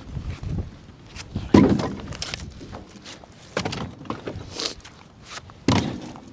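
Split firewood pieces thudding and knocking as they are handled and dropped. Three louder thuds come about two seconds apart, with lighter knocks between.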